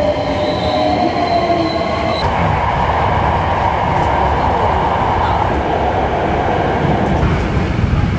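Hankyu Railway electric commuter train: a high whine of several held tones for about the first two seconds that stops abruptly, then the steady noise of the train running, heard from inside the car.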